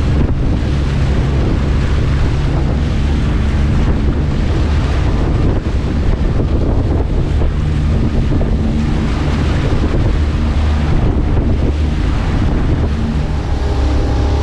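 Strong wind buffeting the microphone, a steady low rumble, with sea water washing around a small boat.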